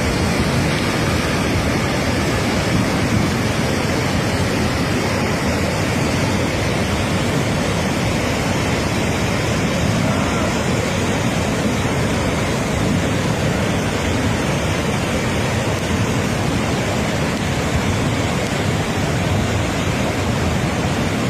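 Steady rushing noise of fast-flowing floodwater, an even roar with no breaks or changes.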